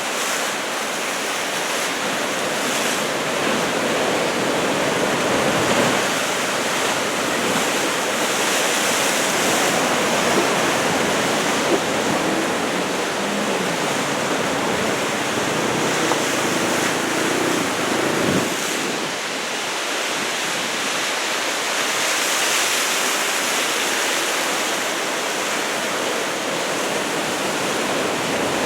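Ocean surf from swell left behind by a passing typhoon, breaking and washing in a steady, continuous rush, with some wind on the microphone.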